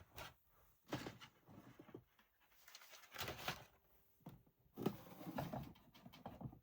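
Faint rustling and light knocking of craft supplies being handled and moved about on a work table, in short separate bursts about a second apart.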